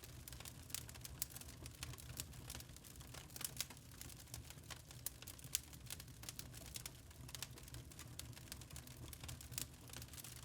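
Wood fire in a fireplace crackling: irregular sharp pops and snaps, some louder than others, over a low steady rumble of the flames.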